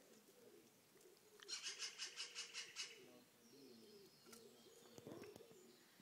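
Faint outdoor birdsong: a quick run of high chirps about a second and a half in, over soft low cooing. There is a soft knock about five seconds in.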